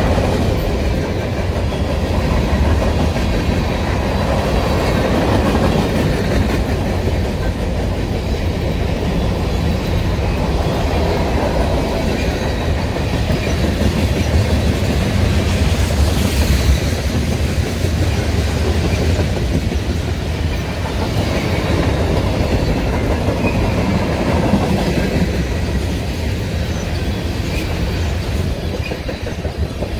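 Freight train cars, covered hoppers and then tank cars, rolling past at close range in a steady, unbroken rumble.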